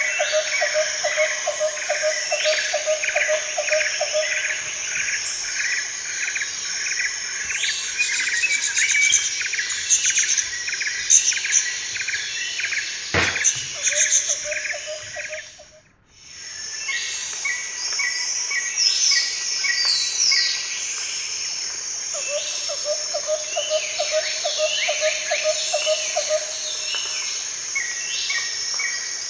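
Birds chirping and calling over a steady chorus of insects, with rapid pulsing trills. About halfway through, the sound fades out and then comes back.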